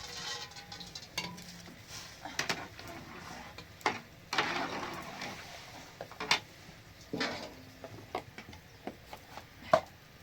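Kitchenware being handled: scattered clinks and knocks of utensils against cookware, with a longer scraping sound a little past four seconds in.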